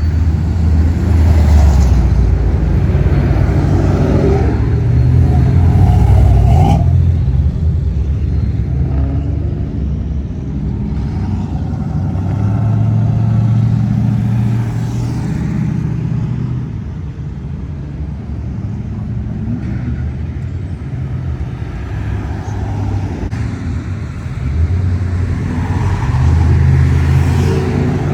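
Classic cars driving past one after another, their engines rumbling low and swelling as each car passes, then fading.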